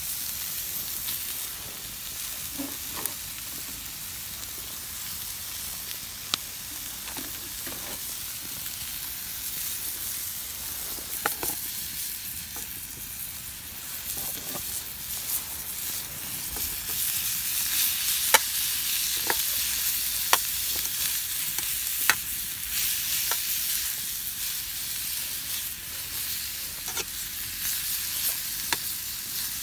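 Food sizzling in a pan over a wood campfire: a steady frying hiss with scattered sharp pops and clicks. It grows louder about halfway through.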